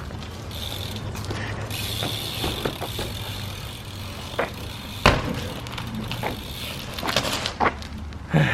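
BMX bike riding on pavement: tyre rolling noise with clicks and knocks of the bike, and a sharp bang about five seconds in as it hits something or lands.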